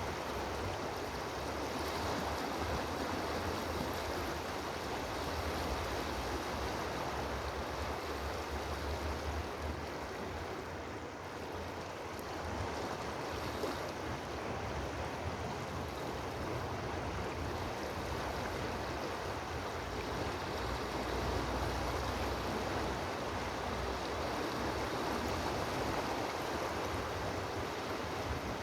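Steady rush of flowing water, with an uneven low rumble underneath.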